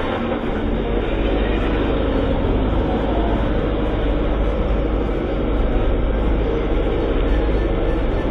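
A vehicle running, heard as a steady, loud rumble.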